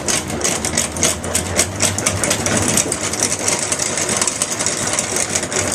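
Honey extractor spinning frames of honeycomb: a steady mechanical whir with a fast rattle as the honey spits out of the cells.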